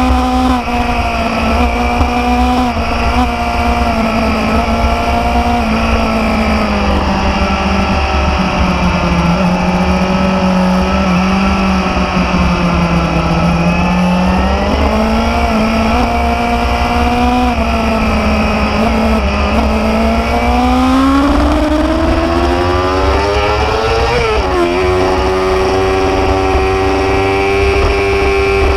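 Motorcycle engine running under way, its pitch sagging and rising with the throttle. Near the end it climbs steadily as the bike accelerates, drops sharply once at a gear change, then holds a higher steady note, over a constant low rumble.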